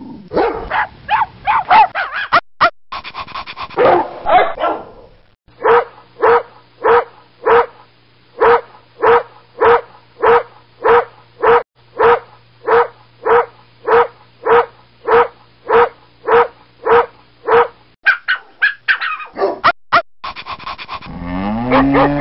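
Dogs barking: a few seconds of irregular barks, then a long run of evenly spaced barks at about two a second, then more irregular barks and a longer call rising in pitch near the end.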